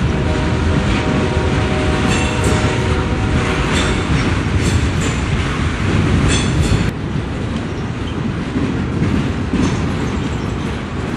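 Freight cars of a long train rolling past close by: a steady rumble and clatter of steel wheels over the rail joints, with brief high wheel squeal in places.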